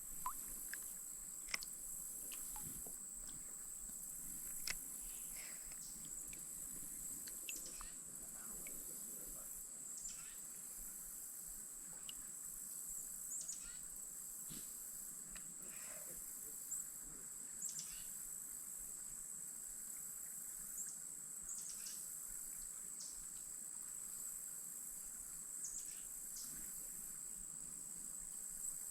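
Steady high-pitched insect chorus, an unbroken drone with a faint pulsing shimmer above it, with scattered brief clicks and chirps every few seconds.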